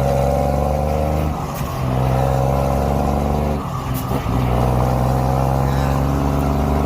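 Shacman X3000 heavy truck's diesel engine running through a straight-pipe exhaust: a loud, steady, deep note that dips briefly twice.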